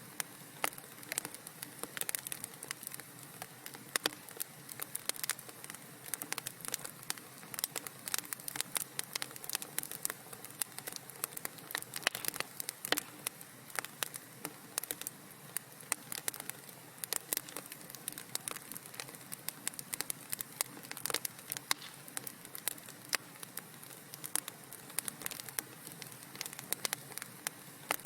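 Fireplace fire crackling: a steady soft hiss with frequent sharp pops and snaps, several a second, at uneven intervals.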